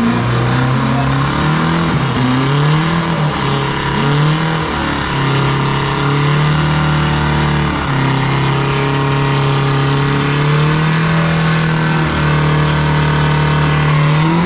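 Modified turbo-diesel pickup truck engine revving hard and held at high revs during a burnout, its pitch sagging and climbing back several times. The truck is a manual held back by hand, its worn street tyres spinning to heat them up.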